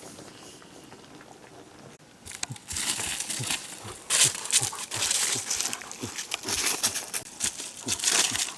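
Irregular rustling and crackling with many sharp clicks, starting about two seconds in after a quiet start.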